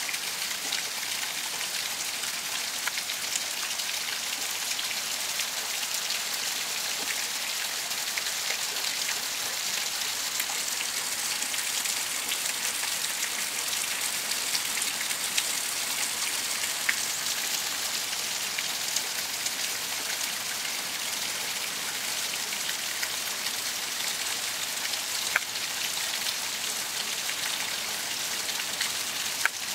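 Heavy rain pouring down steadily, with scattered sharper ticks of drops hitting nearby surfaces.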